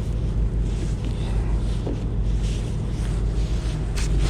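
Boat's engine running at low idle while it is eased into the boat lift, a steady low rumble, with wind buffeting the microphone.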